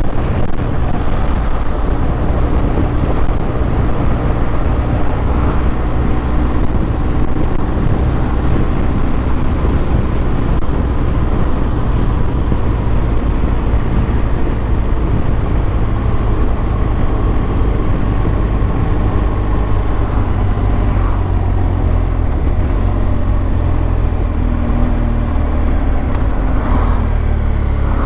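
BMW R1200 GS's boxer twin engine running steadily while the motorcycle is ridden along the road, a continuous low rumble. Its pitch shifts near the end.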